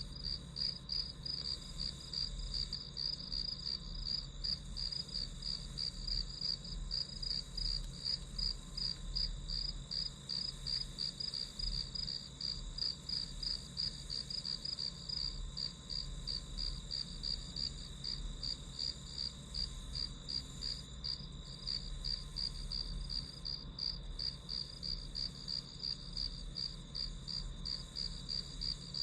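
Crickets chirping in a steady, even rhythm, a few high chirps a second, with a fainter chorus of other insects behind.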